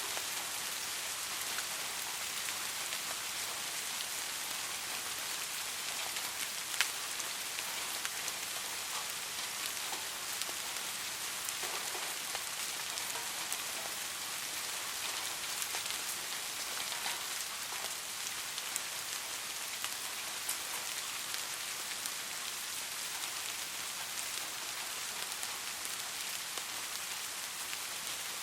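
Soft, steady rain falling on a surface, an even hiss with scattered individual drop ticks; one slightly sharper drip about seven seconds in.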